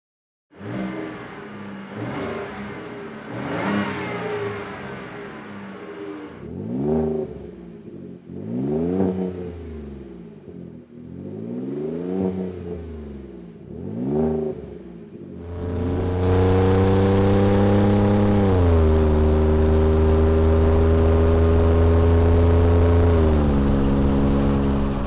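Ford F-150 3.5L EcoBoost twin-turbo V6 through a Proven Ground C&L Series side-exit stainless cat-back exhaust, revved several times in quick rises and falls. About sixteen seconds in comes a long, loud pull under acceleration that steps down in pitch twice.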